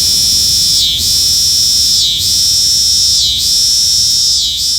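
Cicadas buzzing in a loud chorus: a steady high-pitched drone that dips and swells back about once a second.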